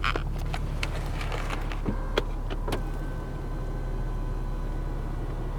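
Electric steering column adjustment motor running with a steady whine as the steering wheel moves, after a few sharp clicks of the controls, over a steady low cabin hum.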